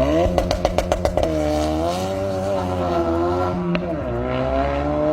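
Car engine accelerating hard, its pitch climbing, with a quick run of sharp pops in the first second; the pitch drops briefly about four seconds in, then climbs again.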